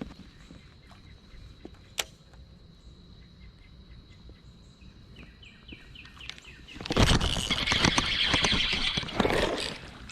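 Water splashing and thrashing beside a kayak, starting suddenly about seven seconds in and lasting about three seconds: a hooked bass fighting at the surface as it is brought in. Before that, only faint chirps and a few light clicks.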